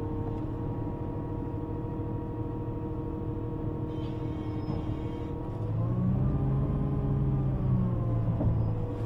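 Underground train running with a steady electric hum over a rumble. About two-thirds of the way through, a louder hum rises and then falls in pitch.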